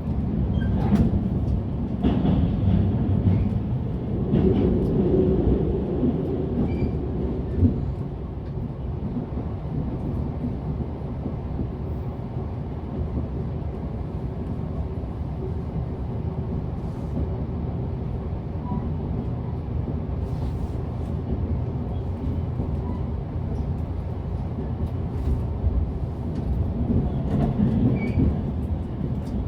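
Running sound inside a JR Central 383 series electric limited-express train: a steady rumble of wheels on rail with a low hum from the running gear and motors, and a few short clicks. The rumble is louder for the first few seconds and again near the end.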